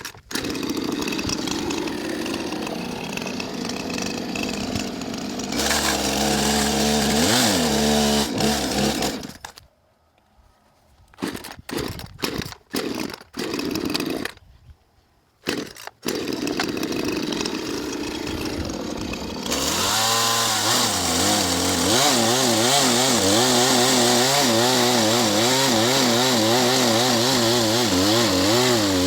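Gas two-stroke chainsaw running after being started, revving up briefly and broken by several short gaps. In the last third it runs louder and faster, its pitch wobbling up and down as it works under load in the wood.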